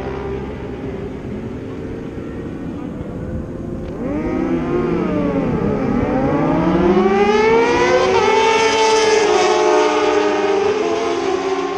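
Motorcycle engine running. Its pitch dips and then climbs steadily from about four seconds in, and it holds at higher revs, louder, through the second half.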